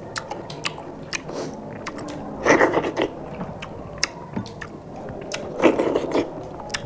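Close-up wet chewing and mouth clicks of people eating rice and fish curry with their hands. The sound has many short sharp clicks, with two louder stretches about two and a half seconds and six seconds in.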